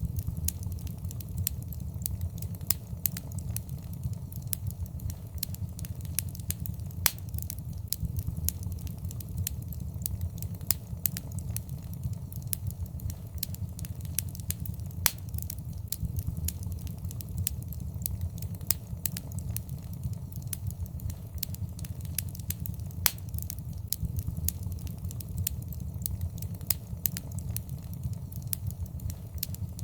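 Wood fire in a fireplace crackling, with irregular sharp pops, a few louder than the rest, over a steady low rumble of the flames.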